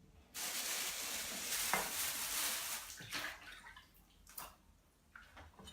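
Water running from a kitchen tap for about two and a half seconds, then a couple of light knocks.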